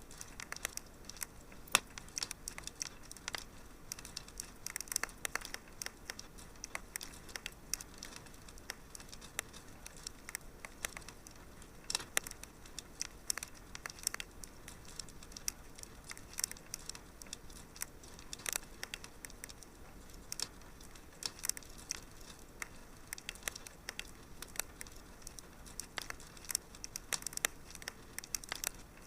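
Wood fire crackling, with frequent sharp irregular pops and snaps over a soft steady hiss.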